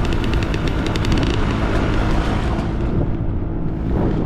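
Dirt bike engine running while riding, with a fast run of sharp ticks through the first second and a half.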